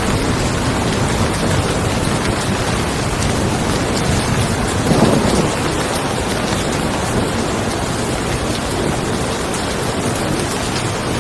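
Steady rain falling on a car, with a low rumble of thunder underneath and a short swell about halfway through.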